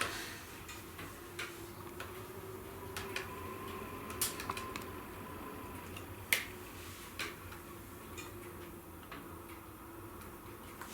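Wood fire in a fireplace crackling: irregular sharp pops and snaps over a soft steady hiss, the loudest pop about six seconds in, with a faint steady hum underneath.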